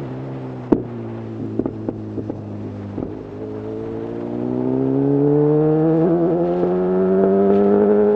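Honda CB1000R inline-four through a full-system Black Widow exhaust, running at low revs with a few sharp clicks. From about three and a half seconds in it revs up and holds steady at higher revs, over wind noise.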